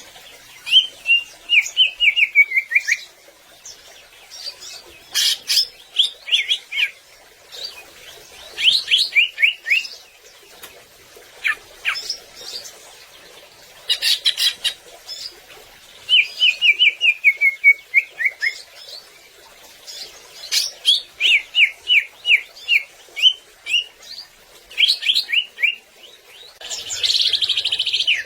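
Cucak ijo (greater green leafbird) in full song: repeated short phrases of quick, clear chirps, many runs falling in pitch, with brief pauses between phrases. A harsher, buzzy call comes near the end.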